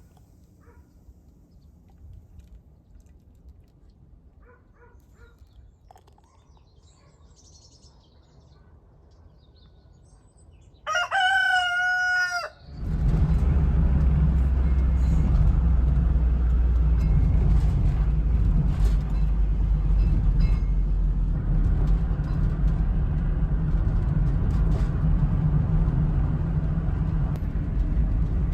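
A rooster crows once, about a second and a half long. Right after it, a loud, steady, low machine or engine noise comes in and keeps running.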